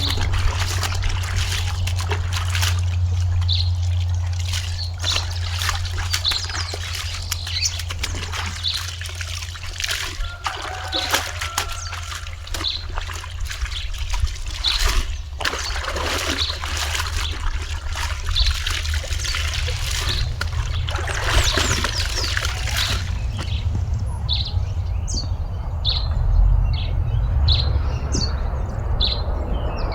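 Water trickling and splashing with scattered clicks and knocks over a steady low hum. Birds chirp repeatedly near the end.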